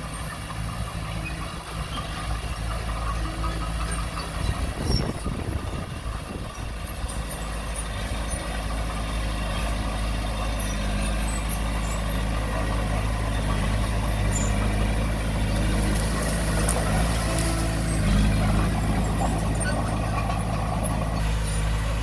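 Diesel engine of heavy earthmoving equipment running steadily, growing louder about a third of the way in as it works harder or comes closer.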